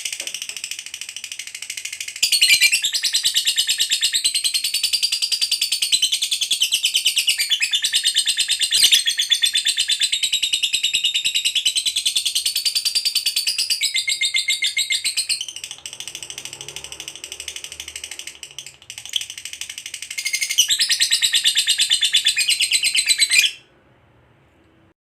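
Lovebird giving a long, rapid chattering trill ('ngekek panjang'), a fast stutter of high-pitched notes. It softens for a few seconds in the middle, swells again, and cuts off abruptly near the end.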